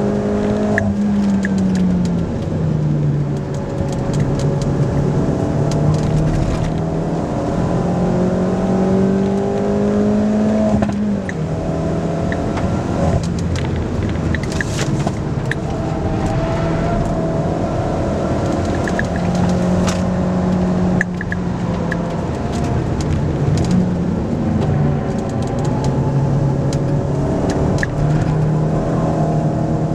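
Opel Corsa OPC's turbocharged 1.6-litre four-cylinder engine heard from inside the cabin while driven hard on a race circuit. The engine note climbs slowly under acceleration and drops suddenly several times at gear changes or lifts, with occasional short clicks.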